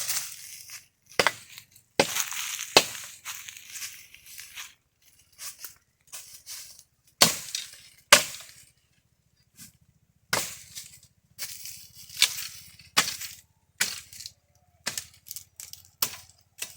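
Axe chopping dry catingueira wood: a series of sharp, irregular blows, roughly one a second, with a few short pauses between them.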